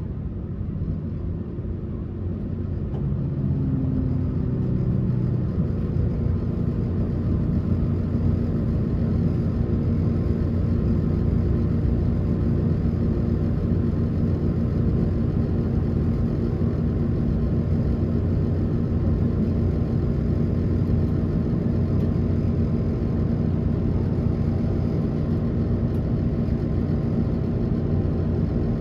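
Passenger train running on the line, heard from inside the car: a steady rumble of wheels on rail with a layered motor and running-gear hum. It grows louder over the first few seconds, then holds even.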